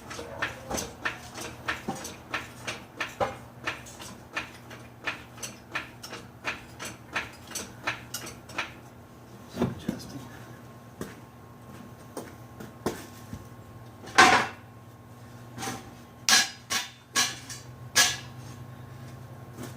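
Metal clicking at an even pace, about three clicks a second, for roughly the first nine seconds, then several louder, separate metal clanks and knocks.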